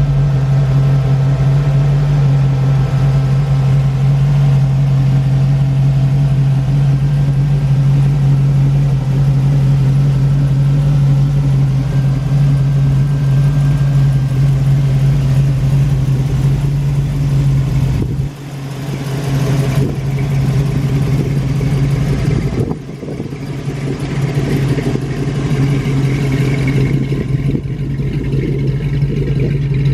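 Chevy small-block V8 in a 1934 Plymouth street rod running steadily at idle, with two short dips in level at about 18 and 23 seconds.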